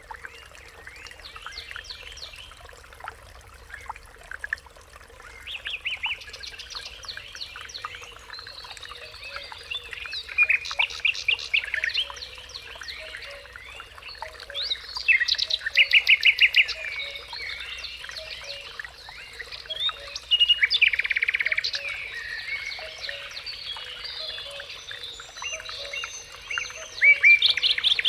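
Several wild songbirds singing and calling together in a busy chorus of chirps. Loud rapid trills come in about ten seconds in, again around fifteen and twenty seconds, and once more near the end.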